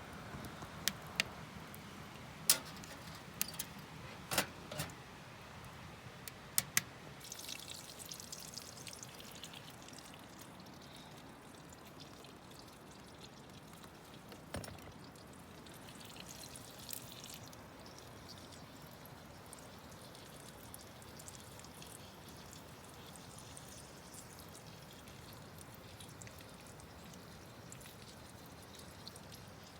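Water trickling steadily, with a string of sharp clicks in the first seven seconds and a couple more later.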